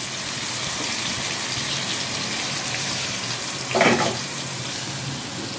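Oil sizzling steadily in a kadai as masala-coated small brinjals fry, with a brief louder sound about four seconds in.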